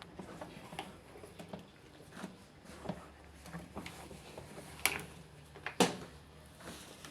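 Irregular light clicks and knocks, with two sharper knocks about five and six seconds in, over a faint steady low hum.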